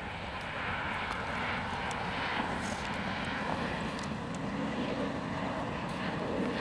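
An airliner's engines running: a steady rushing noise that grows a little louder about a second in and then holds.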